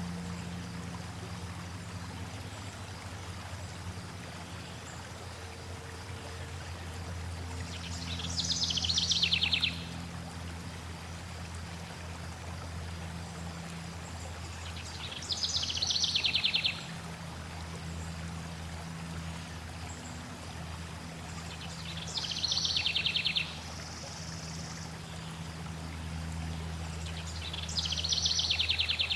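Steady flowing water, with a songbird singing a fast, falling trill four times, about every seven seconds.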